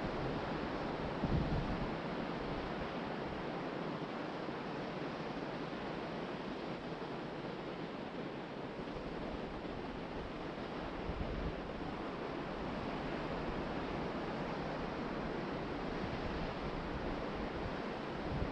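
Ocean surf breaking and washing onto the beach, a steady rush, with wind buffeting the microphone in low rumbles a few times, about a second in, around the middle and at the end.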